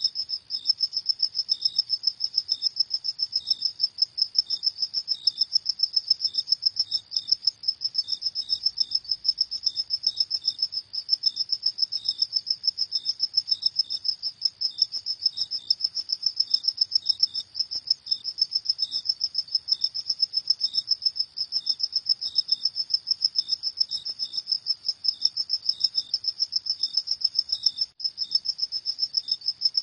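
Crickets chirping at night: a steady, fast, high-pitched trill of pulses that goes on without a break.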